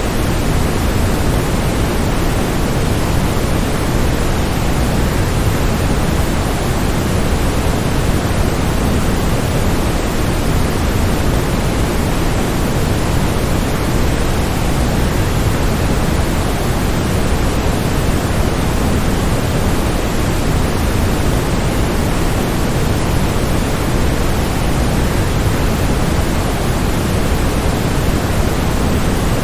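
Waterfall rushing in a steady, unbroken roar of falling water, heaviest in the low range.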